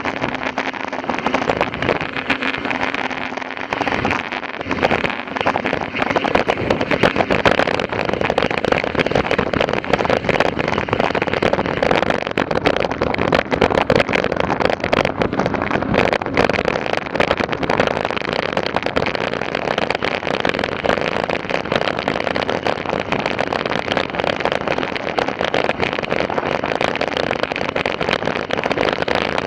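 Mountain bike riding over a rough, sandy trail: a steady, dense crunching and rattling of tyres and bike.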